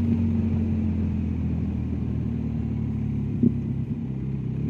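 BMW R1250GS Adventure's boxer-twin engine running as the bike is ridden, a steady low engine note that eases slightly in pitch partway through. A single short knock about three and a half seconds in.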